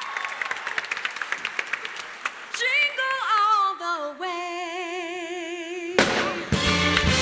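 Audience applause, then a held chord with a wavering vibrato from the big band or singers, then the full big band comes in with drums and bass about six seconds in.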